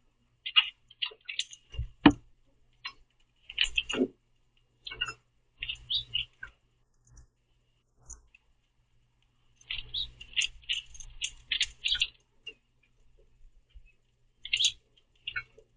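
Common grackles calling in short, clustered bursts of chirps, busiest about ten to twelve seconds in, as several birds squabble over seeds at a feeder. A sharp knock about two seconds in is the loudest sound.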